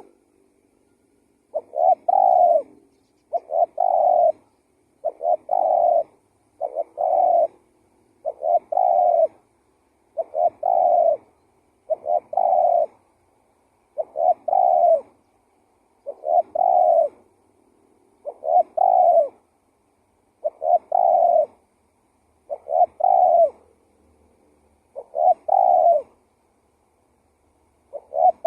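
Spotted dove (tekukur) giving its repeated cooing call, a short run of notes ending in a longer coo, about fourteen phrases spaced every one and a half to two seconds.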